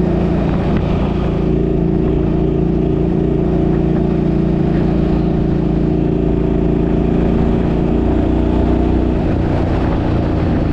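Suzuki's engine and road noise heard while driving, the engine note holding steady and then changing about nine seconds in. No rattle is heard: the rattle has been fixed.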